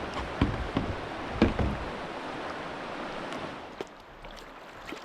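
Rushing river water around a kayak, with a few sharp knocks in the first two seconds, the loudest about a second and a half in; the water sound eases near the end.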